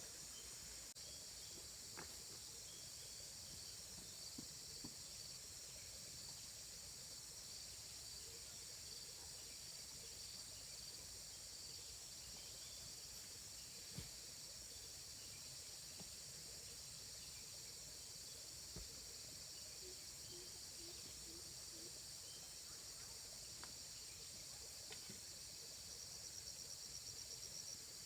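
Faint, steady high-pitched chorus of insects such as crickets, with a pulsing trill joining in near the end and a few faint clicks.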